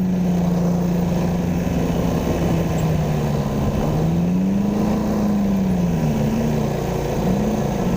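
A vehicle engine running close by, holding a steady pitch and then rising and falling in pitch a few times in the second half.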